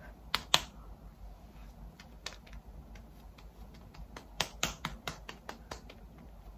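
Light, sharp patting clicks, two about half a second in, two more a couple of seconds later and a quick run of about eight near the end: fingertips tapping BB cream into the skin of the face.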